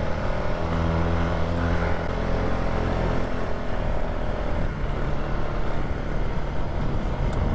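Polaris ATV engine running steadily while riding, its note a little stronger for about a second and a half shortly after the start.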